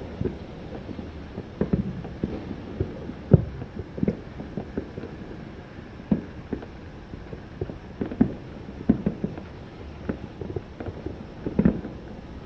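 Distant fireworks going off: irregular low, muffled booms and pops, sometimes several close together. The loudest comes about three seconds in, and another cluster comes near the end.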